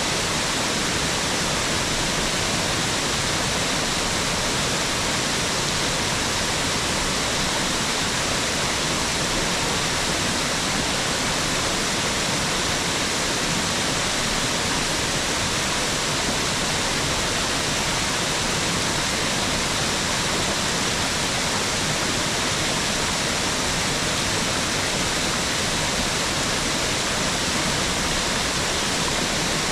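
Mountain waterfall rushing, a steady, even hiss of falling water that holds unchanged throughout.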